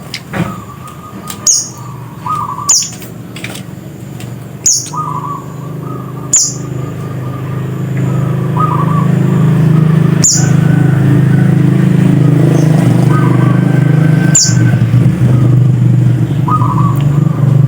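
Scarlet-headed flowerpecker giving sharp, high, downslurred 'tsit' calls every one to four seconds, mixed with short lower chirps. A steady low engine-like hum swells up about halfway through and becomes the loudest sound.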